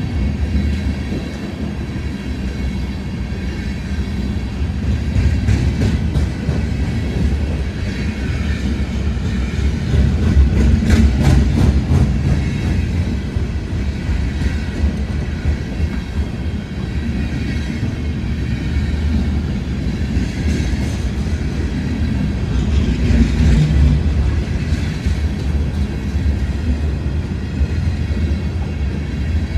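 A train running along the tracks with a steady low rumble, and a run of wheel clicks over rail joints about ten seconds in.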